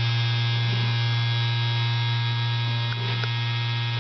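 Small vacuum cleaner running with a steady electric hum, with a faint click or two about three seconds in.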